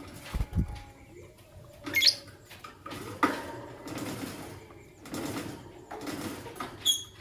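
Lovebirds giving two short, sharp, high chirps, about two seconds in and near the end, between scratchy rustling noises and a couple of dull low thumps near the start.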